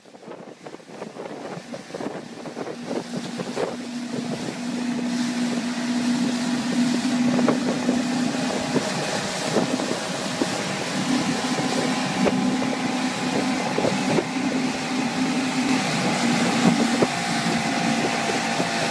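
A motor running steadily with a constant low hum, under broad wind noise on the microphone, fading in over the first few seconds.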